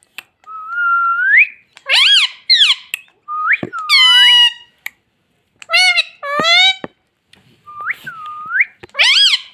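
Pet Indian ringneck parakeet whistling: a run of short whistled notes that glide up and down, mixed with sharper rising-and-falling calls, with brief pauses between them.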